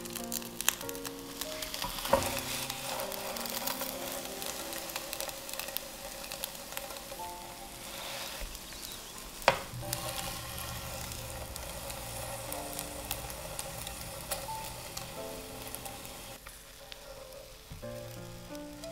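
Egg-and-tofu omelette sizzling steadily in oil in a nonstick frying pan. A few sharp clicks from the utensils against the pan, the loudest about nine and a half seconds in.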